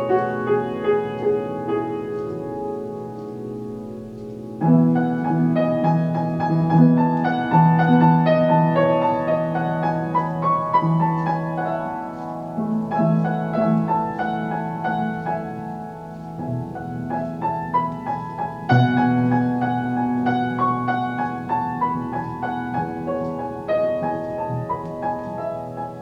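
Solo piano playing a gentle tune, with notes ringing on and fading. Fresh, louder chords start new phrases about five seconds in and again near nineteen seconds.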